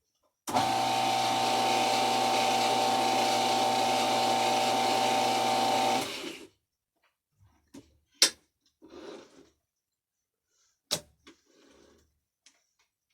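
Metal lathe switched on and running steadily under power for a single-point thread-cutting pass, with a steady hum and whine; it cuts off about six seconds in and runs down briefly. Afterwards come a few sharp metallic clicks and handling noises as the lathe's levers and cranks are worked by hand.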